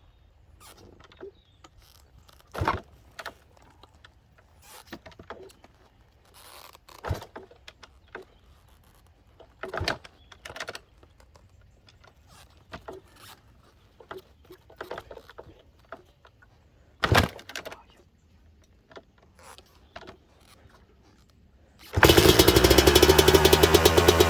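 A few scattered thumps and knocks, then, about 22 seconds in, the 2003 Kawasaki KX250's two-stroke single-cylinder engine fires and runs loudly with rapid, even firing pulses. It is a cold start on choke after three years of sitting.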